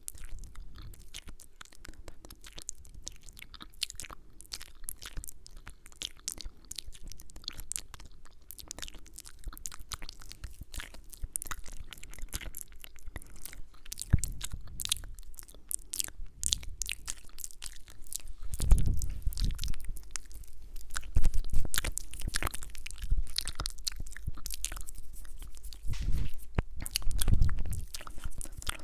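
Close-miked ASMR mouth sounds: a dense run of wet clicks, smacks and kisses right at the microphone, with a few low thumps about halfway through and near the end.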